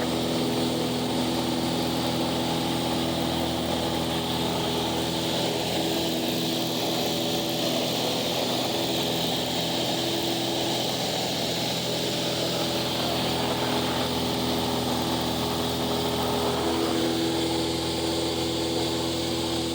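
Cessna 172's piston engine and propeller running steadily, a constant drone made of several held tones.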